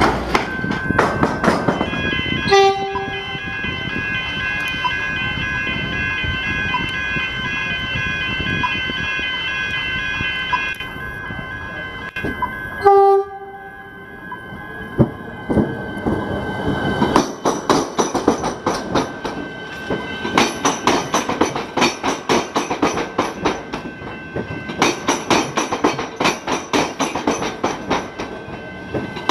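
Rail vehicles crossing a tram square, the level crossing where tram tracks cut across the railway: steady pitched tones for the first half, two short horn blasts about two and a half seconds and thirteen seconds in, then dense rhythmic clickety-clack of wheels bouncing over the crossing from about seventeen seconds on.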